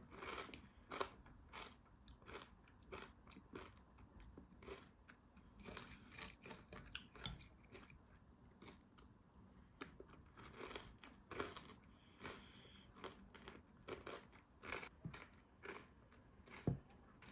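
Someone chewing and crunching food close to the microphone, quiet and irregular, with a sharper click near the end.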